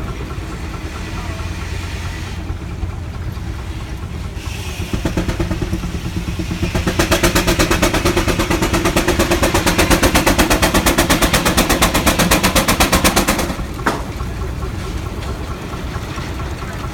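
Steam engine running with a steady low rumble, then working harder, its exhaust chuffing in quick, even puffs, several a second, before the chuffing cuts off sharply near the end.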